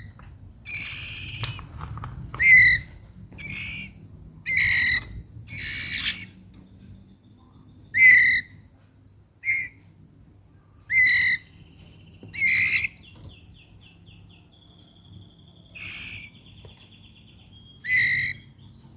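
White-rumped shama calling: short, loud calls repeated every one to two seconds, with faint rapid rattling trills between some of them.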